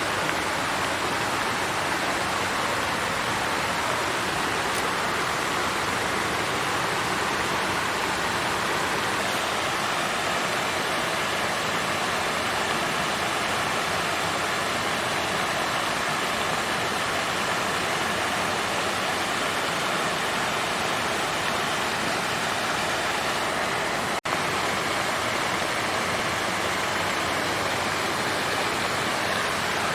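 Water fountain flowing and splashing steadily, an even rush of water with a momentary dip about 24 seconds in.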